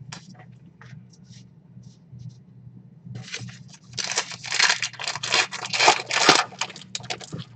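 A baseball card pack's wrapper being torn open and crinkled: a run of quick tearing and crinkling from about three seconds in, after a few faint clicks of cards being handled.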